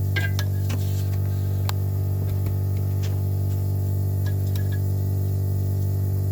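A steady low electrical hum, with scattered small sharp clicks and taps from working the plastic clip of the wheel speed sensor plug.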